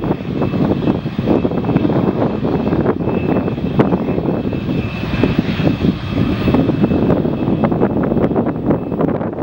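Jet airliner's engines running as it passes, a loud steady rumble with a faint high whine on top.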